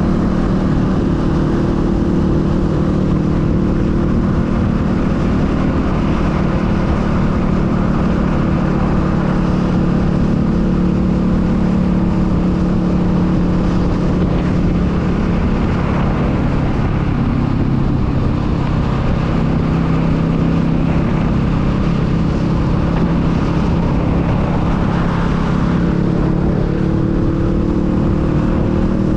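Honda Rebel 500's parallel-twin engine running at steady riding revs, with wind noise on the microphone. The engine note dips briefly about halfway through and rises gently near the end.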